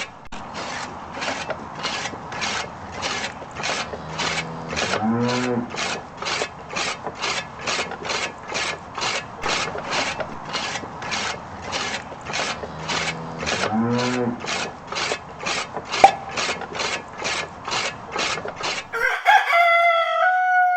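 Rhythmic rasping strokes, about two a second, like a blade or file scraping, with a short pitched call twice along the way; the rasping stops near the end and a rooster crows.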